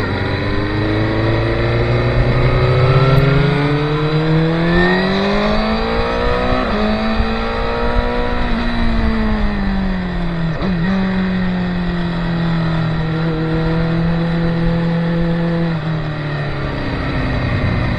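Sport motorcycles running on a race track, several engines heard at once. Their engine notes rise, fall back, hold steady for a while, then drop near the end.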